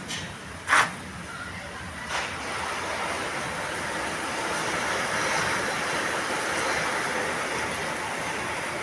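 Steady rushing hiss of a downpour in a hailstorm, setting in about two seconds in after a sharp knock near the start.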